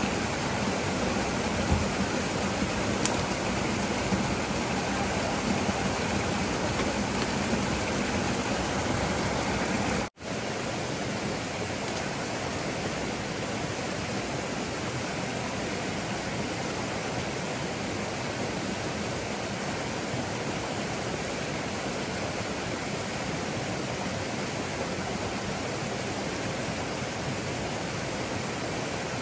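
Steady rush of flowing water, even and unbroken, which cuts out for an instant about ten seconds in and then carries on slightly quieter.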